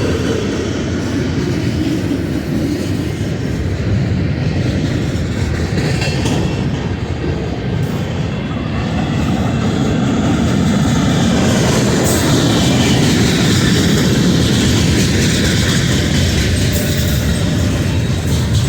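Union Pacific manifest freight train's cars rolling past, a steady, loud rumble of steel wheels on the rails with clickety-clack over the rail joints.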